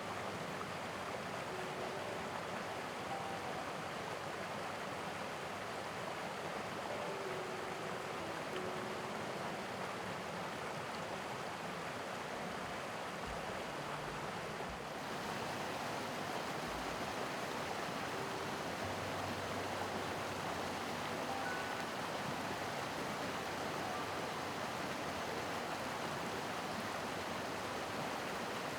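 Mountain stream rushing steadily over rocks, an even wash of water noise whose tone shifts slightly about halfway through. A few faint soft piano notes sound over it.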